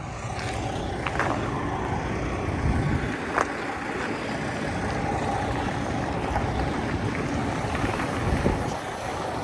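Semi truck's diesel engine running during a backing manoeuvre, with wind rumbling on the microphone. A couple of sharp clicks come about 1 and 3.5 seconds in.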